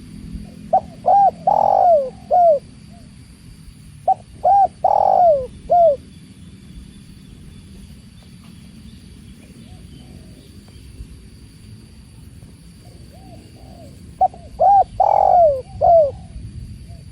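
Spotted dove cooing its song three times. Each phrase is a couple of short notes, then a long falling coo and a short closing note. Between the phrases a steady low rush of running water carries on.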